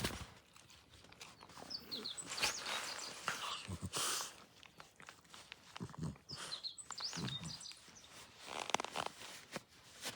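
A few short bird chirps over irregular rustling and crunching noises.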